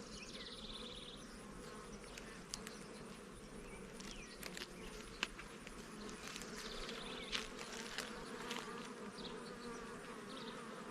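Honey bees buzzing around an open hive, a steady hum with scattered clicks from the frames. The bees are getting agitated.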